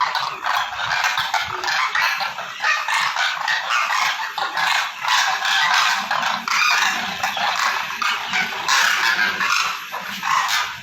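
A flock of demoiselle cranes (koonj) calling together: many overlapping calls in a continuous chorus.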